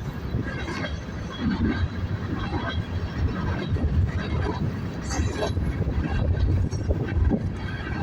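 Freight train of tank cars rolling past: a steady low rumble with irregular clicks from the wheels on the rails.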